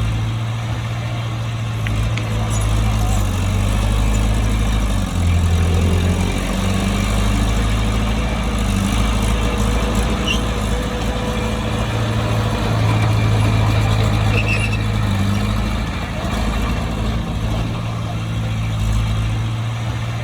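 Bulldozer's diesel engine running steadily, its low note shifting a few times, with a brief deeper, stronger note about five seconds in.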